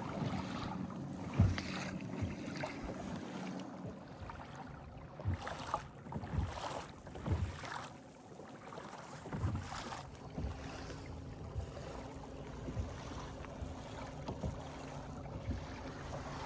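Small electric trolling motor (30 lb thrust) driving a kayak, a steady low hum that drops out for several seconds midway and comes back slightly higher, with irregular knocks of water and gear against the hull and wind on the microphone.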